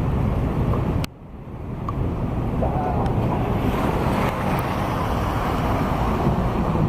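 Wind buffeting the microphone over a steady outdoor rumble. The sound drops out abruptly about a second in, then builds back up.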